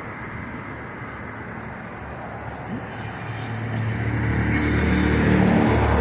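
Street traffic hiss, then a motor vehicle's engine comes in about three seconds in as a low steady hum that grows louder as it draws near.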